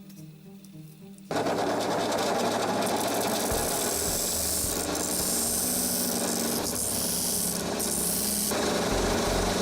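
A power tool working on material. It starts abruptly about a second in and runs steadily, with background music under it.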